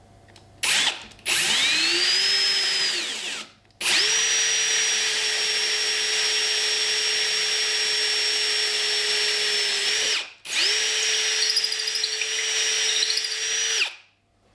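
Power drill boring a hole big enough for a cable after a pilot hole: a short blip, then three runs with brief stops between. The first run rises in pitch as the motor spins up and then falls away; the next two hold a steady whine.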